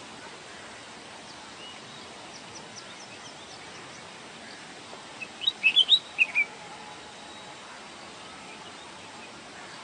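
A bulbul singing: a short phrase of about six loud, quick notes just past the middle, with faint, thin chirps earlier over a steady background hiss.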